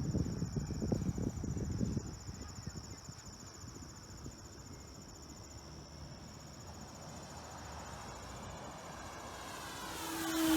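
Insects chirring steadily in the background, with a low rumble during the first two seconds. Near the end, an electric RC airplane's motor and propeller approach, the whine growing louder and starting to drop in pitch as it passes close.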